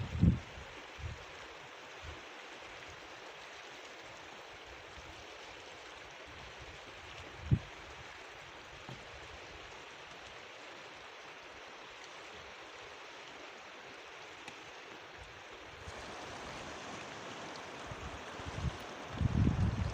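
Flowing river water rushing steadily, a little louder from about sixteen seconds in. A single short low thump about seven and a half seconds in.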